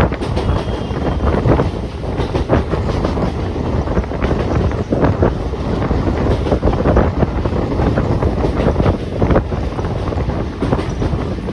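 Siemens EMU local train running, heard from on board: a steady rumble of wheels on rail with frequent irregular knocks and clatter from the wheels and coach, and wind buffeting the microphone.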